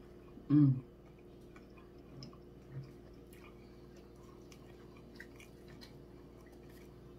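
Close-miked chewing and soft mouth clicks of people eating cheeseburgers, with a short hummed 'mm' from a voice about half a second in.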